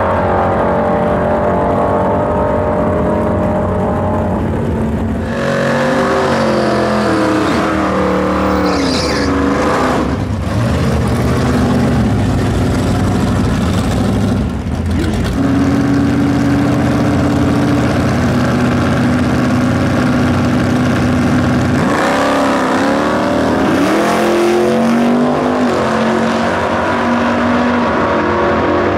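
1960s super stock muscle car V8 drag racing engines revving and running hard. The pitch sweeps up and down several times about five seconds in and again past twenty seconds, with a long stretch of steady, held engine note between.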